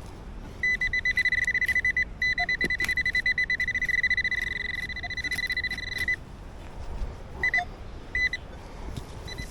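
Metal detector giving a rapid, high-pitched pulsing beep for about a second and a half, then after a short break for about four seconds more, followed by two brief blips near the end: the alert for buried metal close by.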